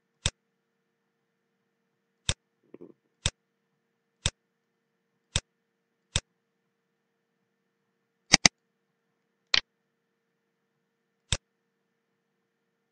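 Computer mouse button clicking, single sharp clicks roughly once a second as points of a markup line are placed, with a quick double-click a little past the middle that finishes the line.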